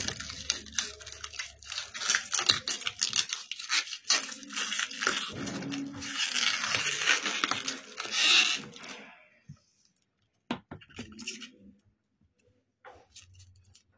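A wrapper being torn and pulled off a part of a newly unboxed washing machine, crackling and crinkling continuously for about nine seconds, then a few scattered clicks as it is handled.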